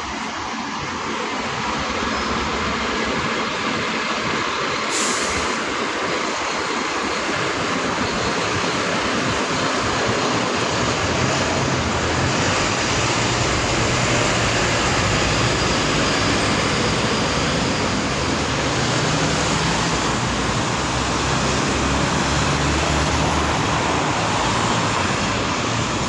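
Steady vehicle noise over a continuous hiss, with a low engine-like hum that builds about ten seconds in and holds.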